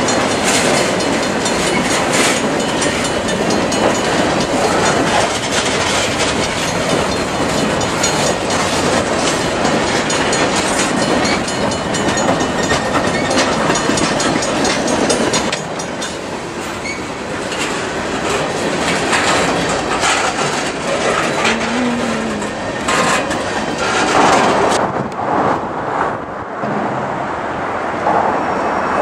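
Freight train cars rolling past at close range: a steady rumble and rush of wheels on rail, with repeated clacks as the wheels cross rail joints. Near the end the sound cuts abruptly to a thinner, different sound.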